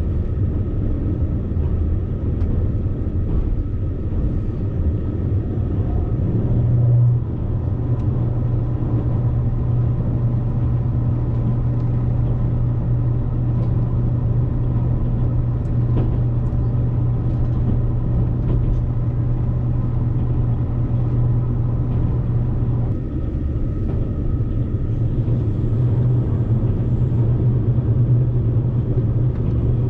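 Cabin noise of a JR Kyushu 787 series electric limited express train running along the line: a steady low rumble. A deeper hum sets in about seven seconds in, drops away briefly about three quarters of the way through, then returns.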